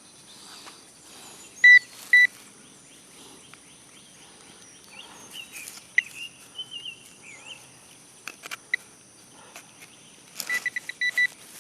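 Metal detector beeping over a dug target: two short beeps near the start, then a quick run of about six beeps near the end. A bird chirps in between, and there are a few faint clicks.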